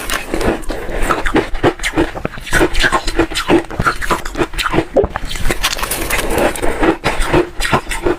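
Hard refrozen ice being crunched between the teeth close to the microphone: a steady run of sharp, crackling crunches.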